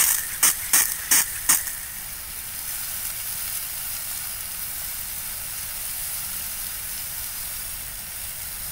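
Riding lawnmower burning, its fire crackling and hissing steadily, with five sharp pops in the first second and a half. The fire is one the owner takes for fuel leaking from the gas tank onto the motor.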